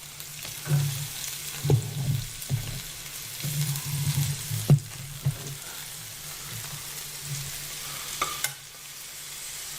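Food sizzling in hot oil in a deep skillet, stirred with a utensil that knocks against the pan several times, hardest a little before halfway.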